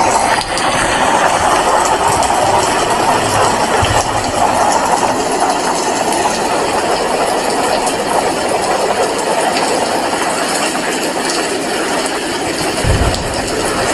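Heavy rain falling steadily, a dense, even hiss. A brief low thump comes near the end.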